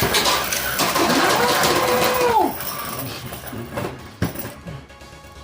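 Beyblade tops spinning and clashing in a plastic stadium, a dense rattling scrape that drops away about two and a half seconds in, with a long drawn-out voice rising and falling over it. A single sharp click comes a little after four seconds.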